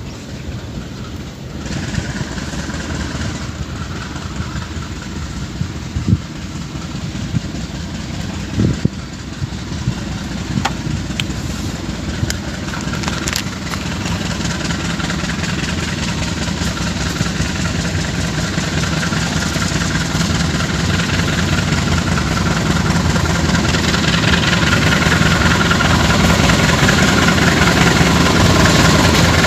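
Diesel train engine running, growing steadily louder as the train approaches, with a few short clicks early on.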